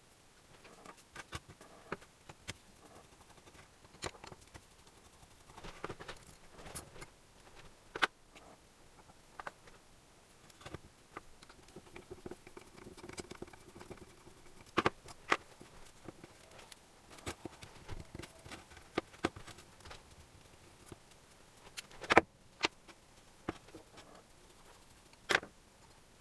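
Irregular clicks, taps and light metallic clinks of tools and small engine parts being handled during motorcycle engine assembly, with a few sharper snaps standing out.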